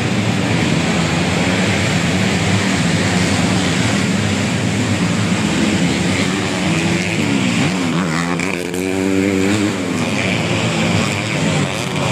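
Underbone motorcycles racing, their small engines running hard at high revs. About seven seconds in, one engine's pitch drops and then climbs again as it slows and speeds back up.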